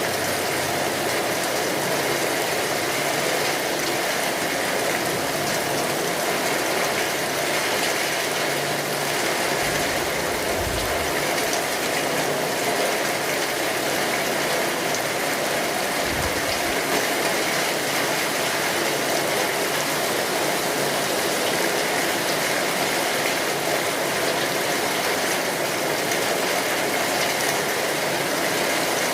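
Steady rain on a tin roof: a dense, even patter. Two brief low thuds come about ten and sixteen seconds in.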